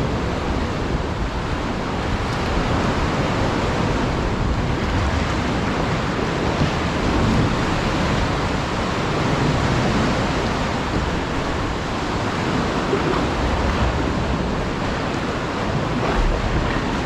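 Sea swell washing and surging around the kayak at high tide, a steady rush of water with wind buffeting the microphone.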